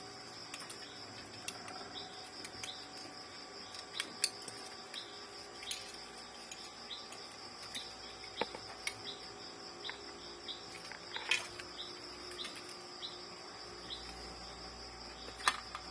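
Scattered small clicks and taps of plastic printer parts being handled while a flex cable is worked into place. Behind them runs a steady, high, pulsing chirr of insects.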